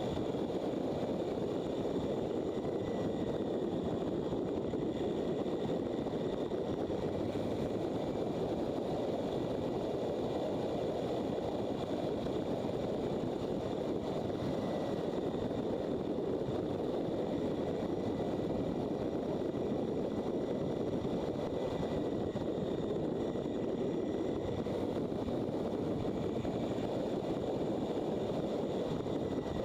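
Motorcycle at steady road speed: a constant rush of wind over the microphone with the engine running evenly underneath.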